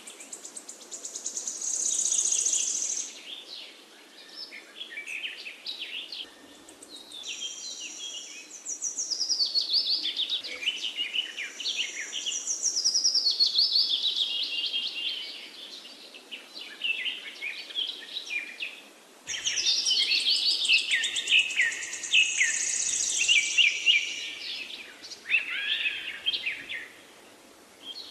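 Birdsong: quick chirps, trills and falling whistles, in several long phrases with short pauses between them.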